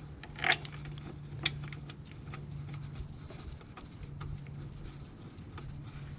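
Scattered clicks and light metallic knocks from hands working with parts and tools in an engine bay, two sharper knocks near the start, over a steady low hum.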